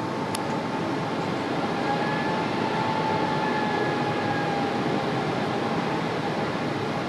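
Steady cabin noise inside a Boeing 777-300 airliner: engine and airflow noise as an even rushing hum, with a faint whine that dips slightly lower in pitch partway through.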